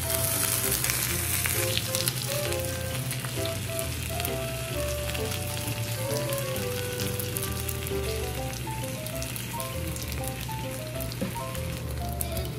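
Gyoza sizzling in oil on an electric hot plate as they are turned with a spatula, the sizzle loudest in the first second. Soft background music with a simple melody plays underneath.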